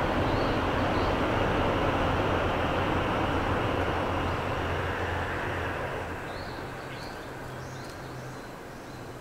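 Shinkansen train's rushing roar as it runs past on the viaduct, holding steady and then fading away from about halfway through. Faint bird chirps come through as it dies down.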